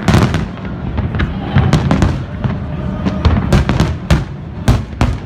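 Aerial fireworks bursting in rapid succession, with sharp bangs about three times a second over a continuous low rumble from the barrage.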